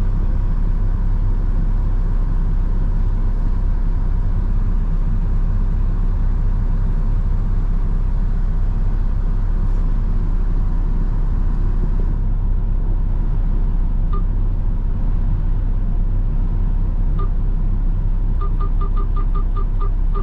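Steady low rumble of a front-load garbage truck's diesel engine, heard from inside the cab. Near the end a run of short, high beeps comes in quick succession.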